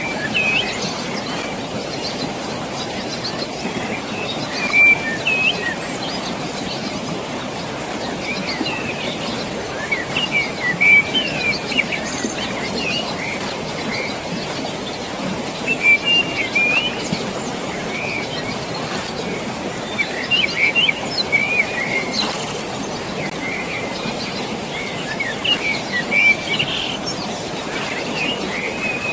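Birds chirping in short clusters of calls, over a steady rushing of water far below.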